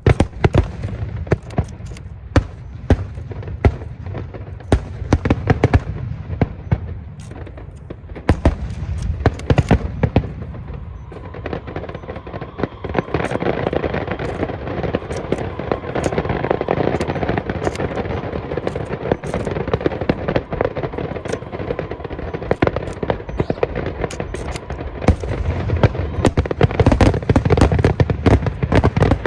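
Aerial fireworks going off in rapid succession: many sharp cracks and deep booms. About halfway through they thicken into a denser, continuous volley.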